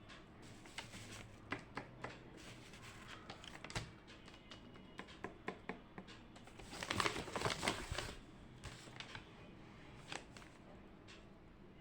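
Desk sounds of someone studying: scattered small clicks and taps, with a burst of paper rustling about seven seconds in.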